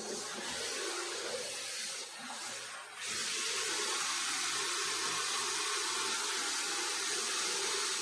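Water running from a tap or shower in a small bathroom: a steady hiss of spray that gets louder and more even about three seconds in.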